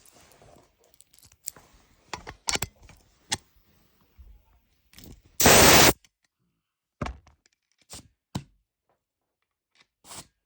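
Handling noises from small plastic and metal parts: scattered clicks and knocks, with one loud half-second burst of hissing noise about five and a half seconds in.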